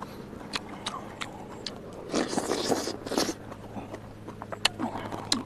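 A man chewing and smacking his lips while eating eel, with sharp wet clicks scattered throughout and a louder, rough noisy stretch lasting about a second from roughly two seconds in.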